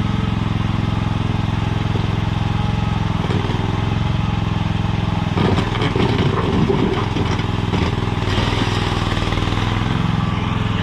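Mini skid steer's small engine running steadily under load while it scoops gravel, its note wavering briefly about halfway through.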